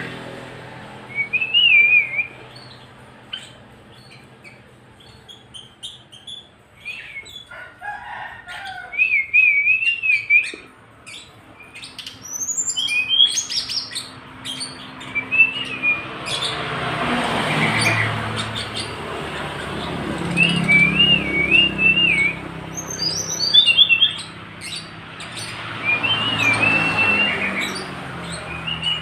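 A tledekan gunung songbird singing short wavering whistled phrases, repeated every few seconds with higher chirps and ticks between them. Twice a louder rustling swells up under the song, the second time near the end.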